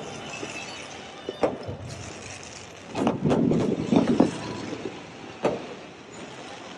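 Fireworks going off: single sharp bangs, with a louder, denser run of bursts about three to four seconds in.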